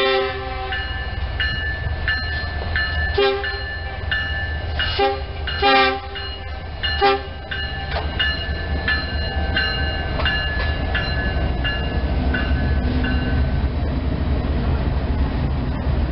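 Diesel-electric freight locomotives, an SD70 and a C40-9W, passing with several short blasts of their horn in the first seven seconds, over a steady rumble of engines and wheels. A bell rings repeatedly. After the locomotives pass, coal hoppers roll by with a steady rumble.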